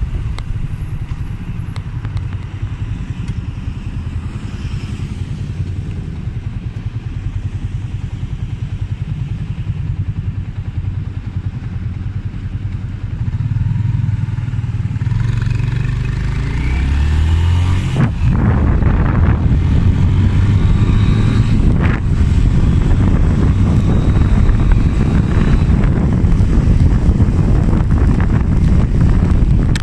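Motorcycle engine running while riding, with wind noise on the microphone; the engine picks up and accelerates about halfway through and stays louder afterwards.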